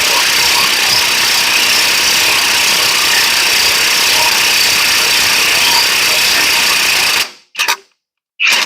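Impact wrench running steadily, backing nuts off, then cutting off suddenly about seven seconds in, followed by two short blips of the trigger.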